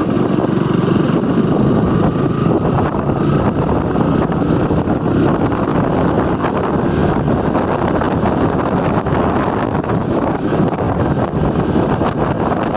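Steady wind buffeting the microphone while riding a motorbike, with the ride's running noise underneath.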